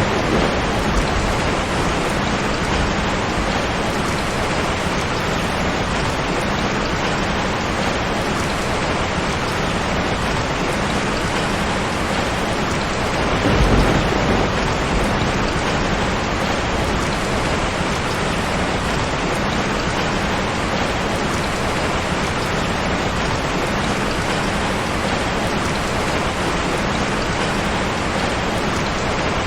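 Steady heavy rain falling, with a low rumble of thunder swelling about halfway through.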